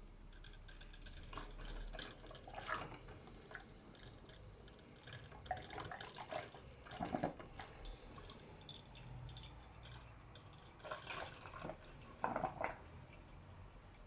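Small drip filter coffee maker brewing, with water dripping and trickling in irregular drips and splashes, a few stronger near the middle and toward the end.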